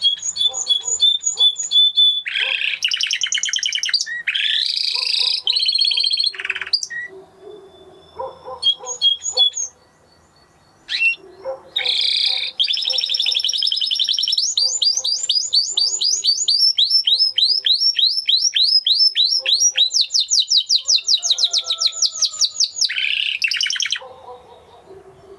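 Spanish Timbrado canary singing in phrases of fast trills and rapidly repeated high notes, with short pauses between phrases.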